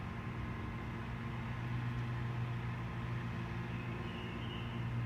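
Rear-loader garbage truck's engine running with a steady low hum, a little louder from just after the start.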